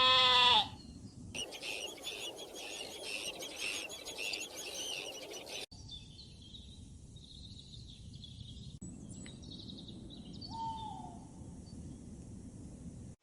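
A bleat that cuts off within the first second. Then a dense chorus of high chirping birds for about four seconds. After a sudden cut come quieter, scattered bird calls, with one short lower call falling in pitch later on.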